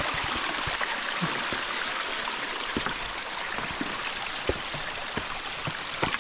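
Small mountain stream of clear water running down a rocky cascade: a steady rush of water. A few soft low thumps sound through it.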